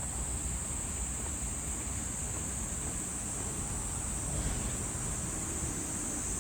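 Summer insects shrilling in one steady, high-pitched, unbroken drone, over a low background rumble.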